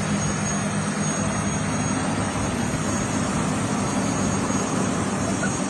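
A steady mechanical drone: a low hum under an even hiss, unchanging throughout.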